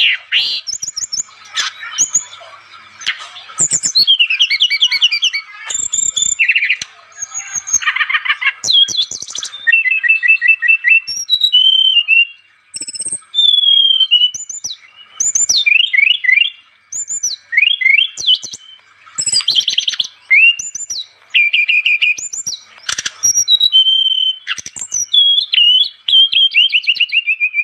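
Brown-chested jungle flycatcher (sikatan rimba dada coklat) singing continuously in full, vigorous song: quick varied phrases of clear whistles, fast rattling trills and chattering notes, with short pauses between them.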